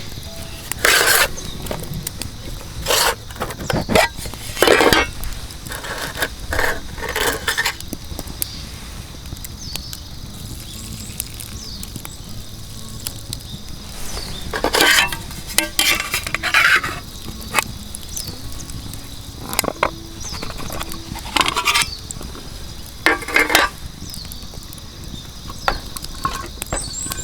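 Metal cookware and utensils clinking and clattering in a series of short, irregular knocks, several of them in quick clusters.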